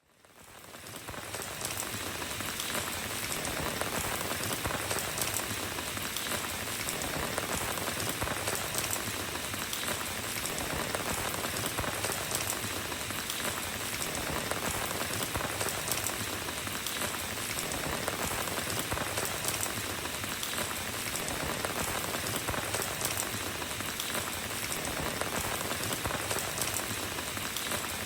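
Steady rain falling, an even hiss scattered with the ticks of individual drops, fading in over the first second or two.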